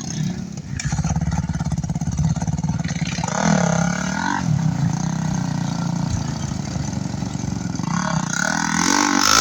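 Enduro motorcycle engine running, revved up and down briefly about three and a half seconds in and again near the end.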